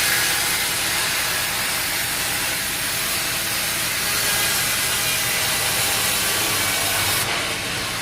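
A sawmill blade cutting through an oak log, a steady hissing cut over the low hum of the mill's engine. The bright top of the cutting noise falls away suddenly near the end.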